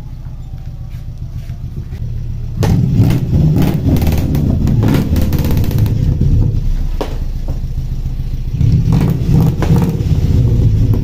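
Exhaust of a Suzuki Futura fitted with an aftermarket 4-3-2 header exhaust built for a Harley-like sound: idling with a low, steady burble, then revved in repeated blips from about two and a half seconds in, louder again near the end.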